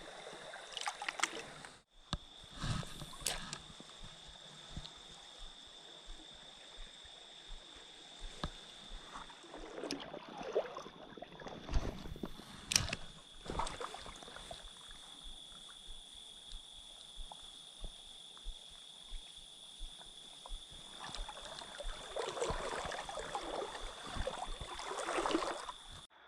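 Creek water sloshing and gurgling, with scattered clicks and knocks and a steady high-pitched tone underneath. The sloshing grows louder near the end.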